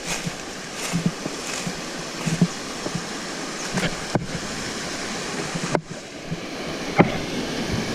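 Rainforest creek water rushing steadily, with a few sharp clicks and knocks scattered through it.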